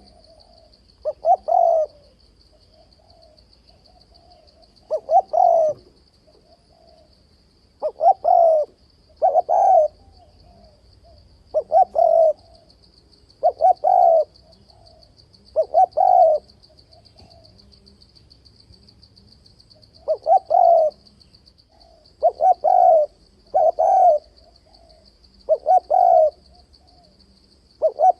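Spotted dove cooing over and over: about a dozen short phrases of two or three notes each, every two to four seconds. This is the male's challenge call, used to draw wild doves to a fight trap.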